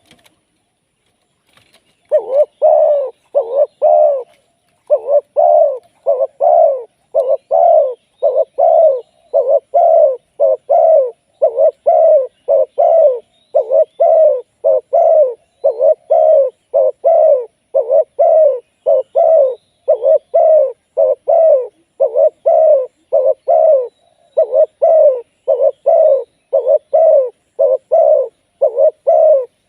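Spotted dove cooing: a long, steady run of short low coos, about two a second, starting about two seconds in.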